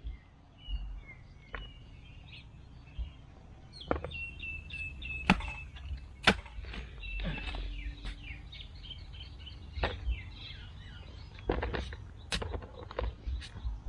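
Birds chirping in quick runs of short notes, thickest in the middle stretch, with several sharp knocks scattered through and a steady low rumble underneath.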